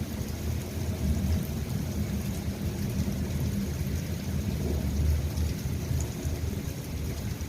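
Rain falling steadily, with a low rumble underneath that swells about a second in and again around the five-second mark.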